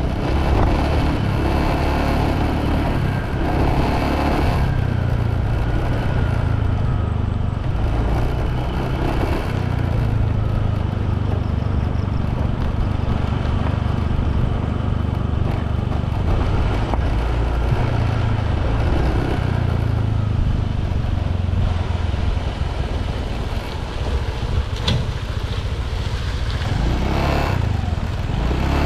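Motorbike running at road speed, its engine and the ride making a steady low rumble.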